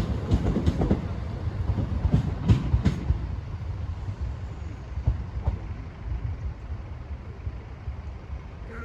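Low vehicle rumble with a few short knocks in the first few seconds, slowly fading away.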